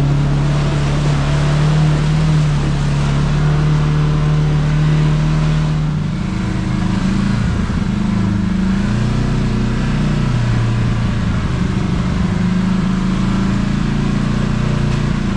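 Kawasaki KRX side-by-side's parallel-twin engine running while driving, a steady drone that drops in pitch about six seconds in and then rises and falls with the throttle.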